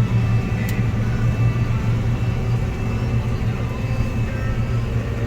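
A heavy farm machine's engine running steadily with a strong, even low hum.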